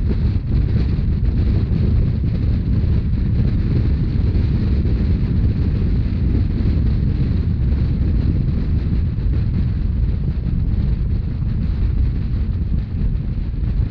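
Wind buffeting the microphone over the steady running rumble of a moving narrow-gauge Rhaetian Railway train.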